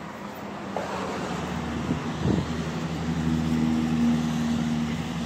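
A motor vehicle engine running with a low steady hum. Its pitch shifts briefly about two seconds in, then holds steady.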